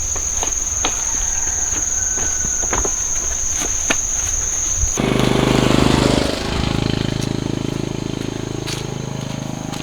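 A steady high-pitched insect drone with scattered clicks. About halfway through, a small engine cuts in loudly, revs up, then keeps running with its pitch slowly falling.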